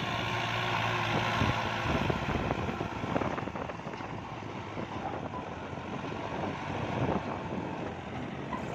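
Kubota farm tractor's diesel engine running steadily, with scattered knocks over the engine noise. It is loudest in the first few seconds, then settles.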